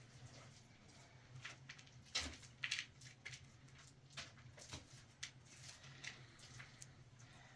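Faint, scattered clicks and taps at irregular intervals, a few louder ones about two to three seconds in, over a low steady hum.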